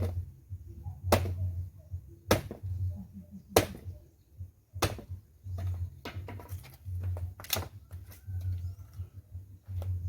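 Footsteps at an even walking pace, about one every 1.2 seconds, each with a low thud and a sharp click or knock.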